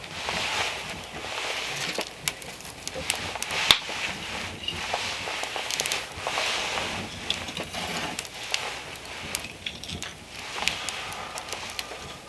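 Snow crunching and scraping in repeated strokes about a second apart, with sharp clicks scattered through.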